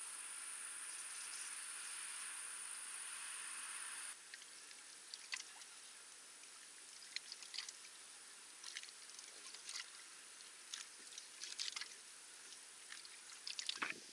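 Faint night ambience of insects: a steady high-pitched stridulation hiss for about four seconds, then after a sudden drop, scattered short high chirps and ticks. No thunder is heard.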